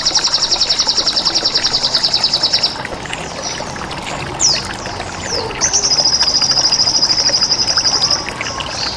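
Two long, high, rapidly pulsed trills of about a dozen pulses a second, the first near the start and the second from about halfway, with short falling chirps between them, over a steady trickle of running water.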